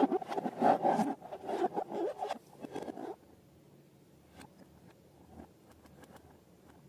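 Crackly, scraping handling noise full of small clicks from slime-making materials being worked by hand, cutting off abruptly about three seconds in, then only faint scattered clicks.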